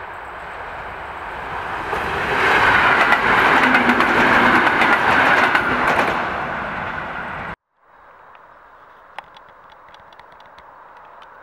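EN57 electric multiple unit passing close by: the rumble builds, peaks for about four seconds with rapid wheel clicks over the rail joints, then starts to fade. About seven and a half seconds in it cuts off abruptly to a faint steady background.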